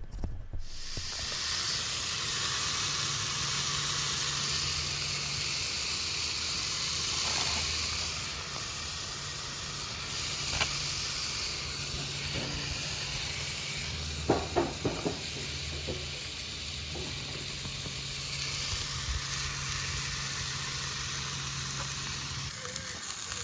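Deer meat sizzling as it fries in a pan on a propane camp stove, a steady hiss that starts abruptly just under a second in. A few light clicks and knocks sound partway through.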